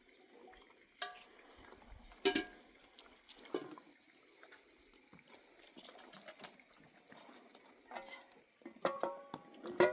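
Metal cookware and utensils clinking: several separate clinks, each with a brief ring, about one, two and three and a half seconds in, then a cluster near the end, between quieter handling sounds.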